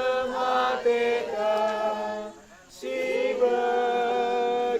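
Slow hymn sung by a group of voices, long drawn-out notes with a short breath break about two and a half seconds in.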